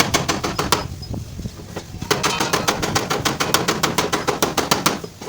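Rapid hammer taps on a car's sheet-metal fender panel, about eight blows a second, in two runs with a pause of about a second between them.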